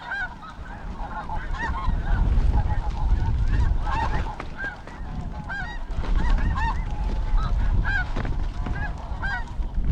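A flock of snow geese calling, many short, high, overlapping honks throughout, with wind rumbling on the microphone.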